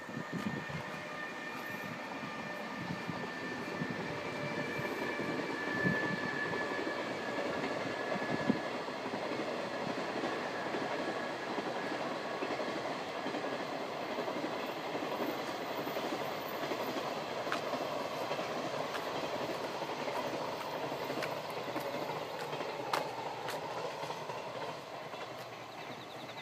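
Train passing, its wheels running on the rails: a steady noise that builds over the first few seconds and dies away just before the end, with faint high steady tones over it for the first eight seconds or so.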